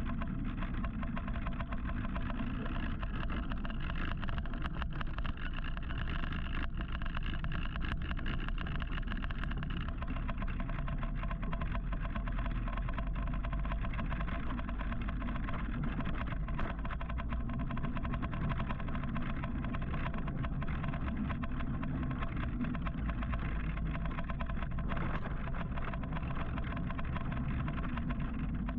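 Steady road and wind noise from riding an electric motorcycle in city traffic, heaviest as a low rumble, with a few faint steady whining tones over it and occasional small clicks.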